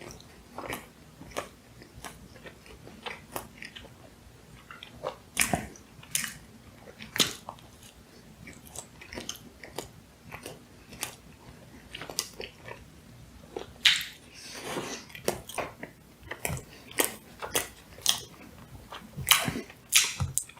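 A person chewing and biting into soft donuts close to the microphone, with irregular wet mouth smacks several times a second.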